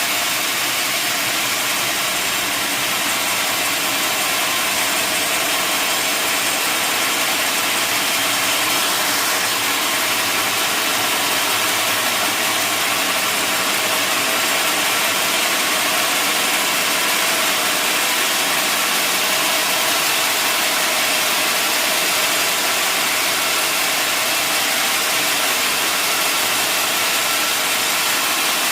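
Sawmill saw machinery running steadily: a constant motor drone with several steady tones under a dense high hiss, unbroken throughout.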